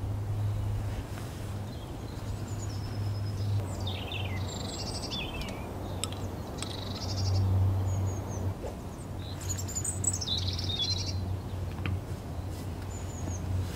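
Small songbirds singing in short phrases of chirps and fast trills, loudest in two bursts through the middle, over a steady low rumble.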